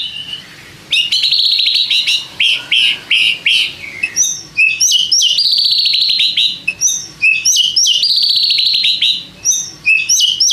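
White-rumped shama (murai batu) singing loudly. It opens with a run of separate whistled notes. From about four seconds in it repeats one phrase every few seconds: a couple of high notes, then a fast, slightly falling trill.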